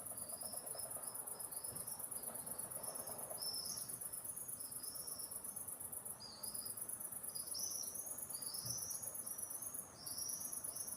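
A steady, very high, finely pulsing insect trill, which briefly drops out twice. Under it a songbird sings a run of short, arched chirps.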